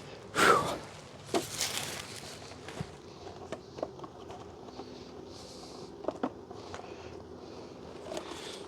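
Dense honeybee colony humming steadily from a hive stirred up by inspection, with a few sharp knocks and a loud brief rush of noise about half a second in.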